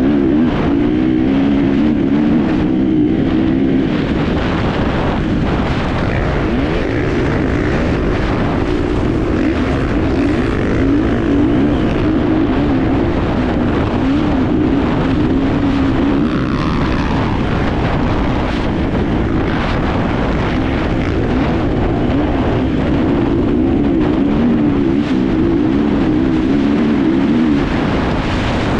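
Enduro motorcycle engine running hard through a race, its note rising and falling constantly with the throttle, with wind rushing over the on-board microphone.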